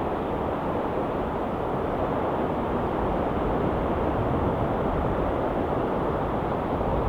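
Ocean waves washing onto the shore, a steady low rushing with no distinct breaks, which may include wind on the microphone.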